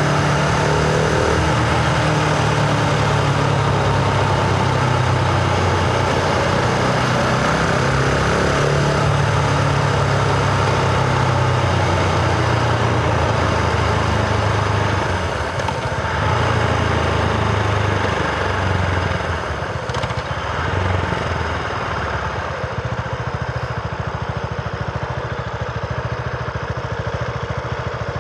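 Husqvarna Vitpilen 701's single-cylinder engine running steadily under load over a rush of wind noise. About fifteen seconds in it eases off and settles to a lower, quieter note.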